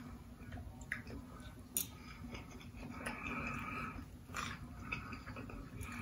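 A person chewing a mouthful of food, faintly, with a few light clicks of a fork against a plate.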